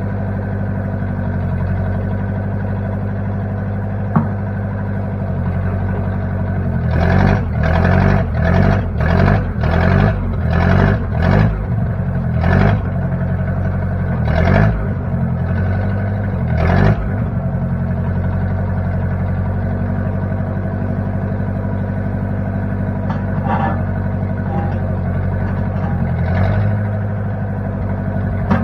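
A 1960 Case 540 backhoe's engine runs steadily, then surges up and down about ten times in quick succession before settling back to a steady run. A single sharp click comes shortly before the surges.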